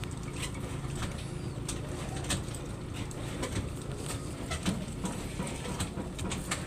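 Domestic pigeons cooing, with scattered sharp clicks over a steady low rumble.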